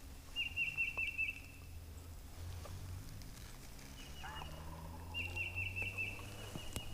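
Turkey calling: a quick run of five or six short, rattling notes, then after a pause a fainter brief run, then another quick run of five or six notes. A low steady hum lies underneath.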